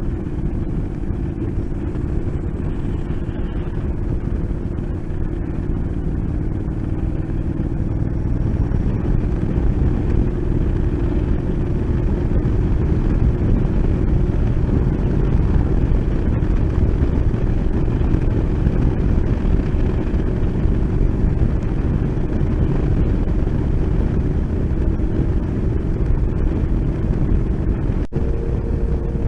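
Motorcycle engine running at a steady speed while riding, with rumbling road and wind noise; it grows a little louder about a third of the way in.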